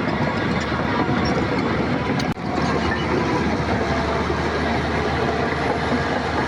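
Heavy diesel earthmoving machinery working: a dense, steady engine noise with a low hum. It drops out for an instant about two seconds in.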